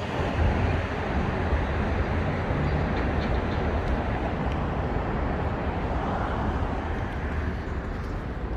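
Elevated subway train on the 7 line running along the track: a steady rumble with no clear screech or horn.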